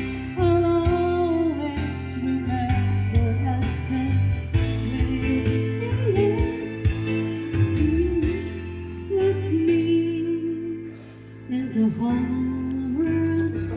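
Singing: a voice carrying a slow melody with long held notes over instrumental accompaniment.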